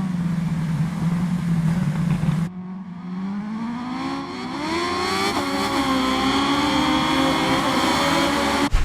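Kawasaki Ninja H2's supercharged inline-four engine running at a steady note that cuts off abruptly about two and a half seconds in. It then comes back and revs up, the pitch rising before it holds high, and cuts off sharply near the end.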